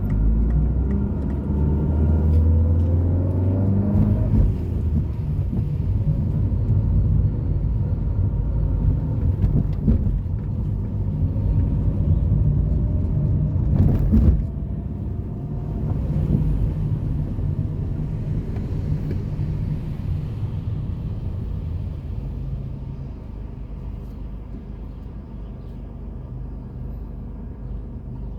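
City road traffic: car engines rumbling, with engine pitch rising twice as vehicles accelerate, and a sharp knock about fourteen seconds in. The rumble fades over the last few seconds.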